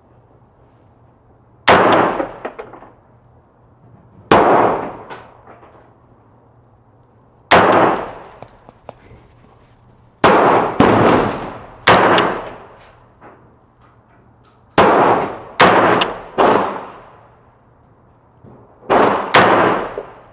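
Airsoft electric rifle firing single shots and quick strings of two to four, a few seconds apart, each followed by a ringing clang typical of BBs striking a steel target.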